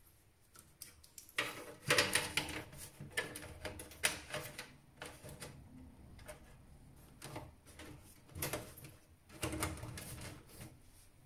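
Irregular clicking, rattling and light knocking of hands working on a desktop PC's metal case and its parts.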